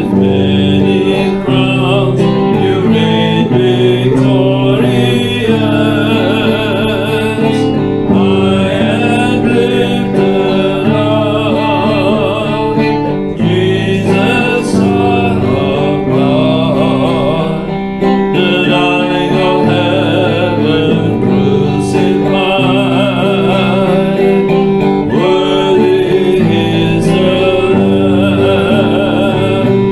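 Worship music: a band led by guitar plays on steadily, with voices singing over it.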